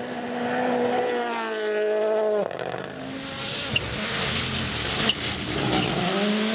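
Rally car at speed on a gravel stage. The engine revs up and cuts off abruptly about two and a half seconds in, followed by tyre and gravel noise with a couple of sharp cracks, and the engine revs climb again near the end.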